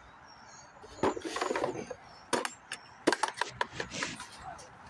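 Small hard objects being handled and knocked together during hands-on repair work: a rubbing scrape about a second in, then a quick run of sharp clicks and clinks.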